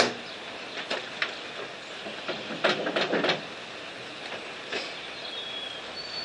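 Steady rain hiss with a handful of short clicks and scrapes from cable clamps being handled at a battery.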